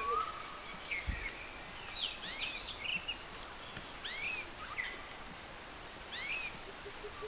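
Small birds chirping in short, high, sweeping calls, coming in several clusters a second or two apart over steady outdoor background noise.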